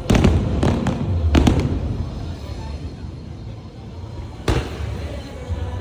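Aerial fireworks bursting: three sharp bangs in the first second and a half and another about four and a half seconds in, with a low rolling rumble between them.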